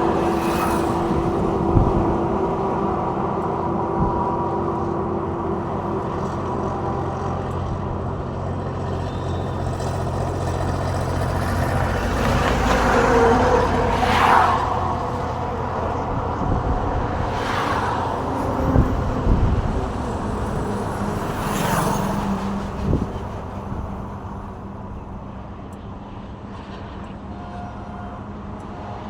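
Road traffic: engines of cars and trucks running, with several vehicles swishing past one after another in the middle stretch and a few short knocks. The traffic grows quieter near the end.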